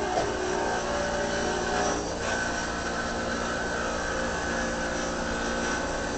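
Electric grinder running steadily, grinding on metal, with a slight shift in its tone about two seconds in.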